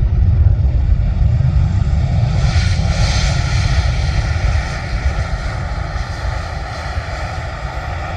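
Jet airliner passing low on landing approach: a loud engine rumble with a steady whine and rushing hiss that build to a peak about three seconds in, then fade away.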